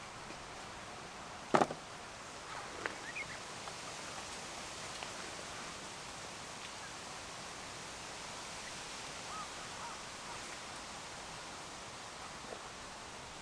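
Steady night chorus of insects, with one sharp crack about a second and a half in and a few faint clicks.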